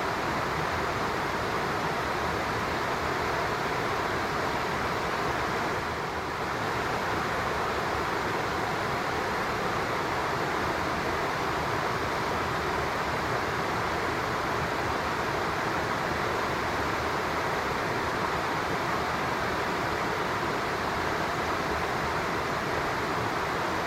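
Steady rushing of a stream or river, an even hiss of flowing water with a slight dip about six seconds in.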